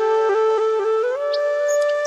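Background music: a flute playing long held notes, with a short ornamented run in the first second and a step up to a higher held note about halfway through.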